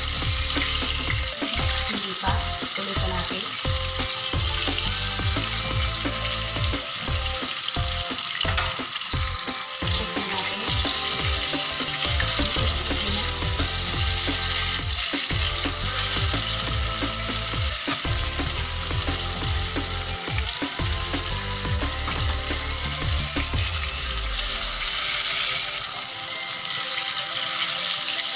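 Breaded chicken breast fillets, coated in flour and cornstarch, sizzling steadily as they shallow-fry in hot oil in a pan.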